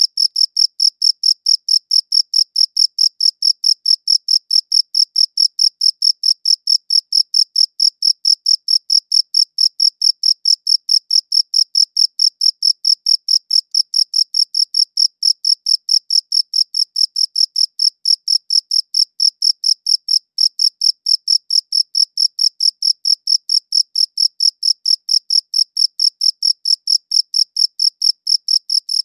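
A cricket chirping steadily in an even rhythm of about four high-pitched chirps a second, with one brief break about two-thirds of the way through.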